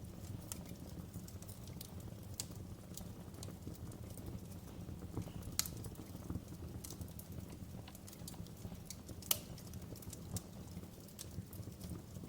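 Fire crackling in a fireplace: a steady low rumble from the flames with irregular sharp pops, two of them louder, about five and a half and nine seconds in.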